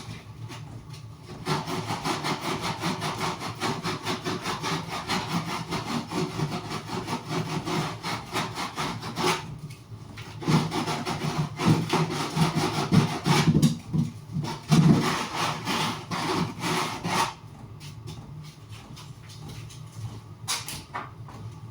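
Hand sanding the rough edge of a cut hole with sandpaper: rapid back-and-forth rubbing strokes in runs, with short pauses, easing off about 17 seconds in.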